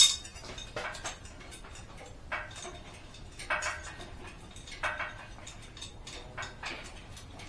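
Scattered metallic clicks and knocks at uneven intervals as heavy engine parts are shifted and lined up, with a sharp knock right at the start.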